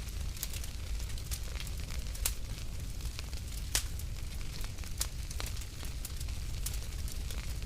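Fire in a fireplace crackling, with frequent irregular sharp pops and snaps over a low, steady rumble.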